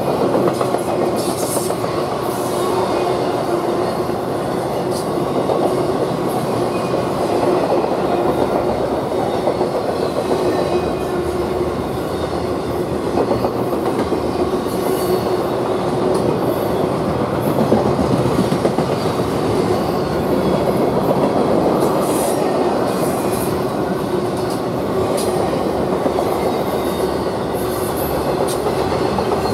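Intermodal freight train passing close by: the steady rumble and rattle of container well cars and trailer-carrying flatcars rolling over the rails, with a steady wheel squeal and a few brief high squeaks.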